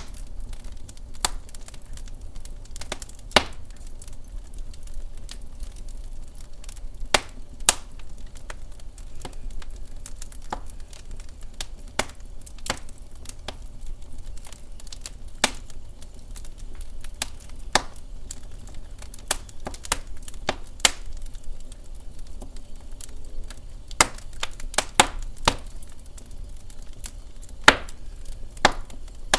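Wood fire crackling in a fireplace: irregular sharp pops, a few of them louder, over a low steady rumble.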